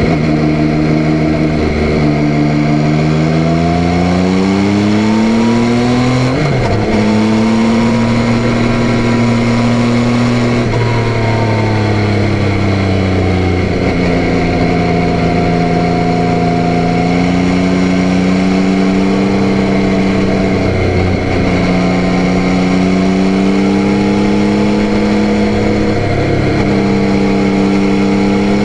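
Yamaha Tracer 9's 890 cc inline three-cylinder engine under way, rising in pitch as the bike accelerates, with a brief break for a gear change about six seconds in. It then runs at fairly steady revs, with another short dip around two-thirds through before the revs climb again near the end.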